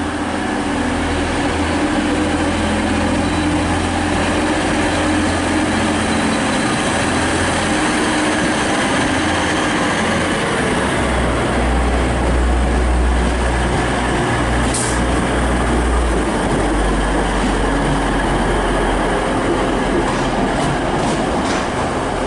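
Class 185 diesel multiple unit pulling away under power, its underfloor Cummins diesel engines giving a steady, loud drone whose pitch shifts about ten seconds in, deepening for several seconds, over the rumble of the moving train. A brief sharp click sounds around fifteen seconds in.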